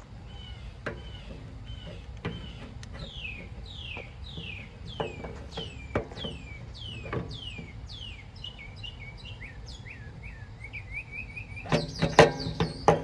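A songbird singing a long series of clear down-slurred whistles, about two a second, coming faster in the second half, over scattered light clicks. Near the end, a short burst of loud clanks and knocks.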